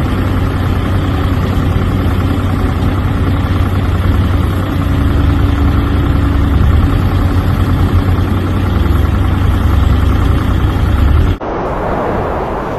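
A vehicle engine running steadily with a loud low rumble and a faint held hum above it. A little over eleven seconds in, it cuts off abruptly to a lighter, noisier rushing sound.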